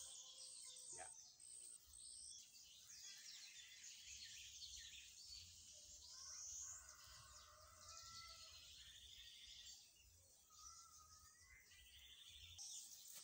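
Faint outdoor ambience: birds chirping and trilling now and then, over a low rumble.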